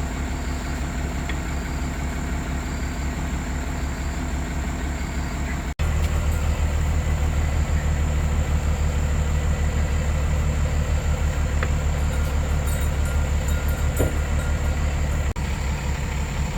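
Excavator's diesel engine running steadily with an even low drone. It drops out briefly twice and comes back louder after the first break.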